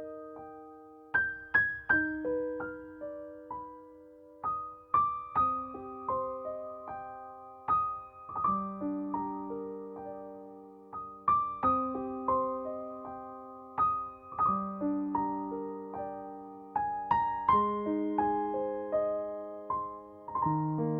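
Soft piano music: single notes and chords struck a few at a time, each ringing out and fading before the next.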